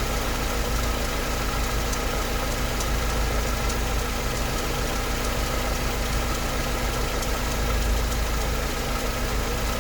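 Mercedes-Benz 190E engine idling steadily, with a rhythmic ticking over the low hum.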